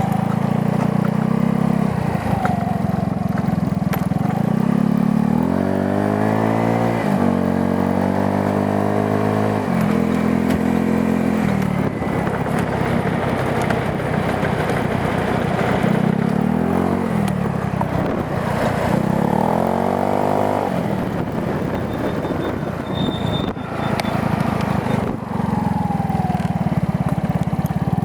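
GY6 150cc scooter's four-stroke single-cylinder engine running through an aftermarket performance exhaust, idling steadily and revved up and back down a few times.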